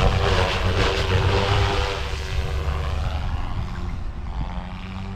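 GooSky RS4 direct-drive electric RC helicopter in aggressive 3D flight: the rotor blades chop and whoosh over the electric motor's steady hum. It is loudest in the first two seconds and eases off toward the end.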